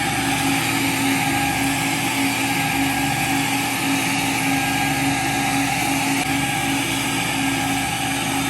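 Carpet-cleaning machine motor running steadily, with a constant hum under a whooshing airflow noise.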